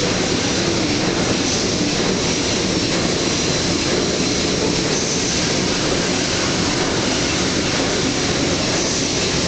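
Engine-room machinery running with a loud, steady, unbroken din.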